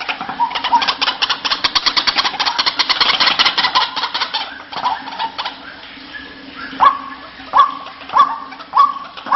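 White-breasted waterhen (ruak-ruak) calling: a fast rattling chatter for the first four and a half seconds, then after a short pause about five loud, sharp calls, each sweeping up in pitch, about one every two-thirds of a second.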